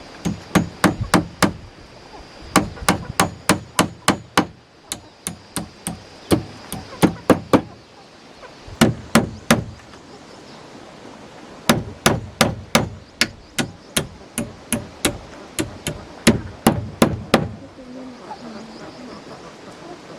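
Hammer driving nails into wood, in quick runs of strokes about four a second with short pauses between runs.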